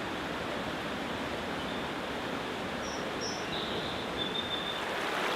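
Forest stream flowing: a steady rush of water, with a couple of faint high chirps about halfway through.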